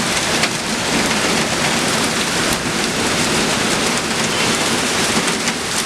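Torrential rain falling steadily, a dense, even hiss of drops hitting the street and nearby surfaces, with a faint steady low hum underneath.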